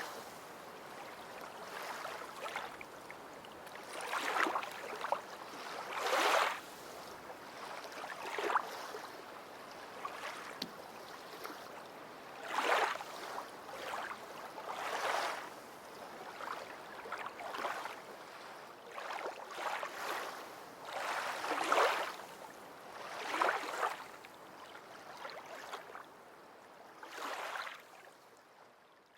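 Small waves lapping and splashing against the hull of a fishing boat, in repeated short surges about every two seconds over a steady hiss.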